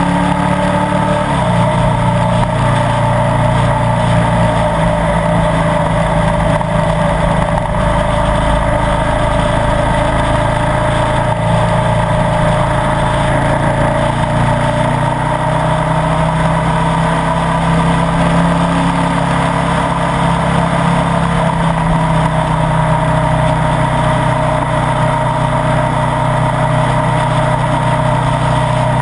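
Ducati Multistrada 1200 S Sport's L-twin engine running at a steady road speed, heard from a camera mounted on the bike, its pitch shifting only slightly through the bends.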